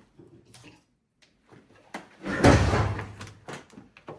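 A loud, heavy clunk and scrape lasting about a second, with a few sharp metal clicks around it, as a part is worked loose and pulled off an old Buick engine.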